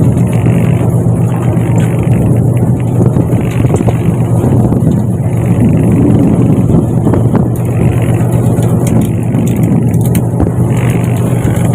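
Fishing boat's engine running steadily with a loud, even low hum, and a soft hiss that swells and fades every two seconds or so.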